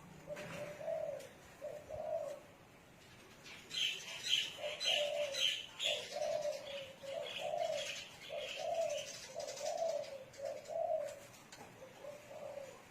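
Spotted doves cooing: a run of short, low, rising-and-falling coos, one after another. Between about four and ten seconds in, a quicker series of high chirps from a small bird plays over them.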